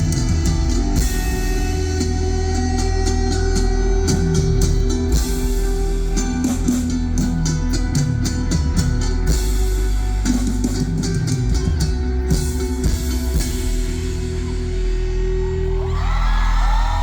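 Live rock band playing electric guitars, bass and drum kit through the closing bars of a song. The crowd starts cheering and whooping about sixteen seconds in.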